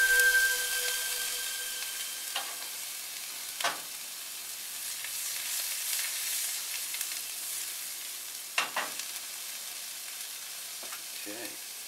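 Salmon and shrimp sizzling in oil in nonstick frying pans on a gas burner, a steady hiss. A few sharp metal knocks of cookware against the stove grate come about a third of the way in and again later.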